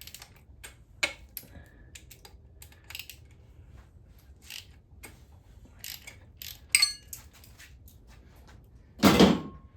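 Hand tools working on engine parts: scattered metal clicks and clinks, a sharp ringing clink of metal about seven seconds in, and a louder heavy clunk about nine seconds in.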